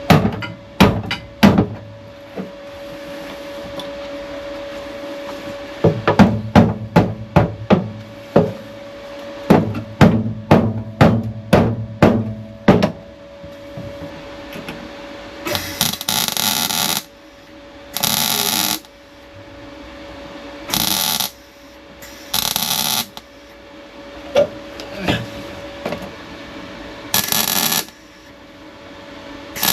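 Hammer blows on a steel repair panel as it is knocked down into shape in a car's boot floor: a few blows at the start, then a quick run of a dozen or more strikes. Later come about six harsh, hissing bursts, each a second or so long.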